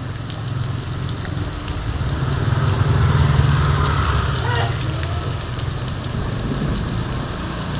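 Heavy downpour, a dense steady hiss of raindrops, with a vehicle engine rumbling underneath that grows louder about two to three seconds in and then eases.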